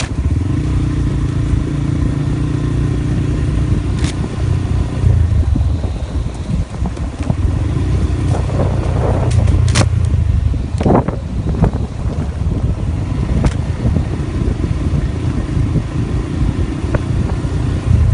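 Steady low rumble of a vehicle on the move, with a few sharp clicks or knocks.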